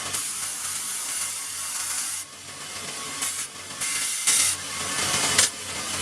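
Abrasive scraping noise of sanding or filing, going unevenly with short breaks and a few louder spells in the second half.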